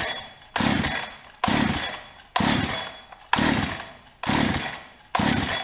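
Holzfforma 372XP chainsaw's two-stroke engine being cranked with the pull-cord starter, about six hard pulls a second apart, each a sharp rasp that fades off. The engine does not catch: the new saw won't start, with the decompression valve closed.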